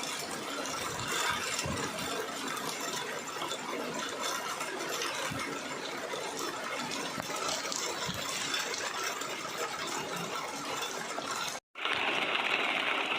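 Rain falling, a dense steady crackle of drops. Near the end it cuts briefly to silence, then to a brighter, steady hiss.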